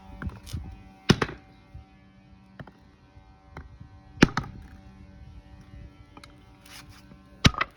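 Sledgehammer striking a geode: three heavy blows about three seconds apart, with a few lighter knocks before the first.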